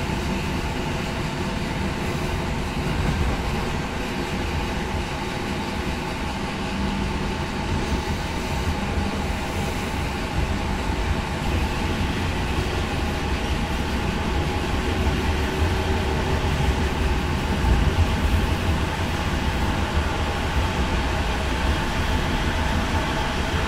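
Regional passenger train running along the line, heard from inside the carriage: a steady low rumble and rolling noise that grows slightly louder towards the end.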